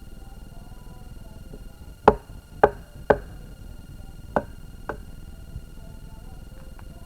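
Five sharp knocks: three in quick succession about half a second apart, then two more after a short pause, each with a brief ringing tail.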